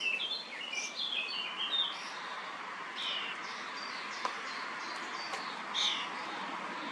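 Songbirds calling and chirping: a quick run of varied high notes in the first two seconds, then scattered single calls, over a steady background hiss.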